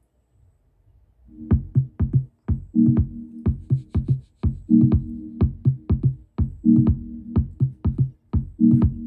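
Electronic dance music with a drum-machine beat, played through a homemade 2.1 speaker system with subwoofer, starting about a second in; low bass chords recur every couple of seconds under the beat.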